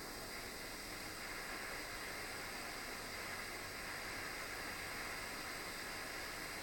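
Soldering torch flame hissing steadily while it heats a brass ring's seam; the metal is not yet hot enough to show colour or let the solder flow.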